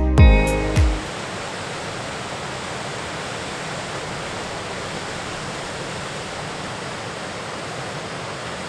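Waterfall rushing, a steady, even roar of falling water. A guitar music track cuts off about a second in.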